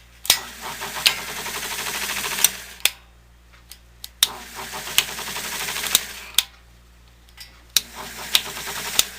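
1970 Triangle Mobile Home Products bathroom exhaust fan switched on and off three times. Each run starts with a switch click, builds to a fast fluttering rattle as the rotor spins up with paper stuck in it, and ends with a click as it is switched off.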